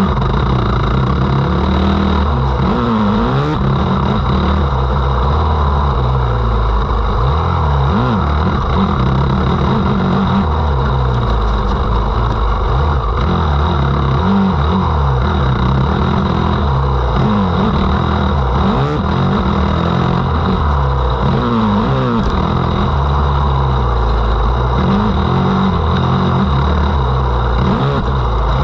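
Motocross dirt bike engine revving up and down over and over as it is ridden hard, loud and continuous.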